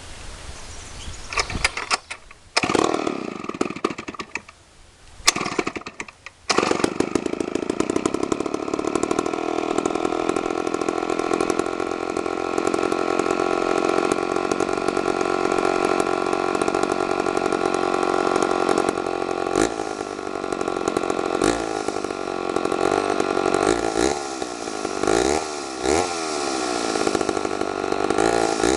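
Homelite Zip 77cc two-stroke chainsaw cold-started: brief sputters and firings in the first few seconds, then it catches about six seconds in and runs steadily. In the last third the throttle is opened and closed again and again, the pitch rising and falling.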